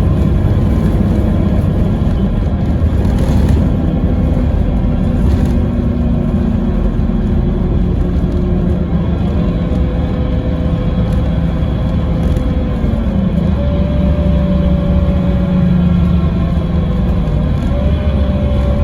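Scania K320IB coach's five-cylinder diesel and ZF Ecomat automatic gearbox running under way, heard on board: a steady heavy rumble with a tone that climbs in pitch twice, about two-thirds of the way in and near the end.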